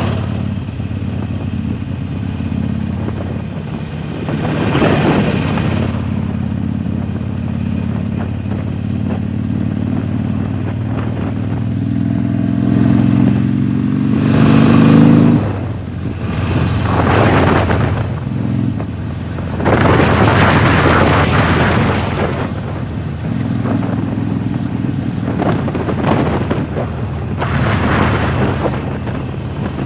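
A 2019 Harley-Davidson Sportster Forty-Eight's air-cooled V-twin runs through a Jekill & Hyde valved exhaust while being ridden. The engine note climbs in pitch under acceleration from about twelve to fifteen seconds in, then drops off sharply. Repeated surges of rushing noise lie over it.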